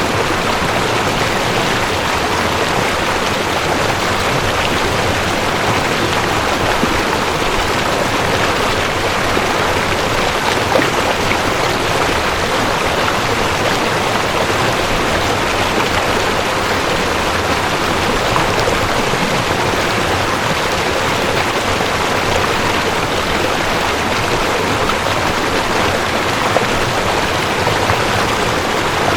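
Cold mountain stream rushing over rocks: a steady, unbroken water rush.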